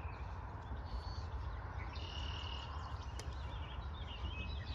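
Faint songbird calls: several short chirping phrases and one brief high steady note about two seconds in, over a steady low rumble.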